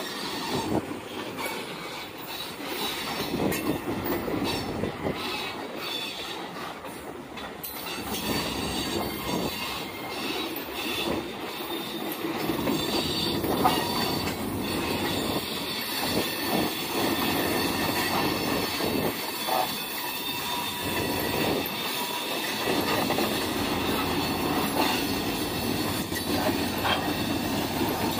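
A train's railroad cars rolling past on the rails, steel wheels squealing with a continuous rumble. It grows louder about eight seconds in.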